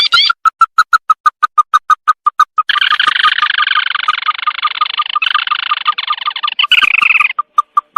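Crake (burung tikusan) calls on a lure recording: a quick run of short, evenly spaced piping notes, about six a second. About three seconds in they break into a dense chattering trill lasting some four seconds, then return to single notes.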